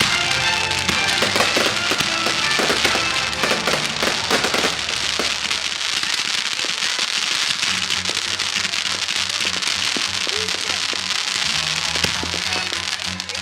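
Fireworks bursting and crackling in quick succession over loud music with a steady low beat.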